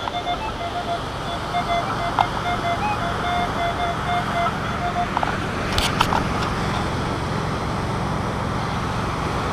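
Minelab CTX 3030 metal detector sounding a choppy, stuttering target tone over a buried coin, which fades out about halfway through. A few sharp clicks come near the middle.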